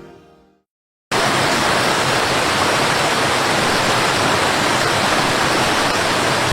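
Music fading out, a brief silence, then a steady, even rushing noise like falling water or static that starts suddenly about a second in and holds without change.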